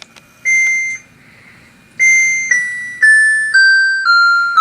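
Electronic beeps from the control panel of an Air-n-Water HC12B cool mist ultrasonic humidifier as its single mist button is pressed. One beep comes about half a second in. From about two seconds in, a run of beeps follows about two a second, each a step lower in pitch, as the mist output is stepped down level by level.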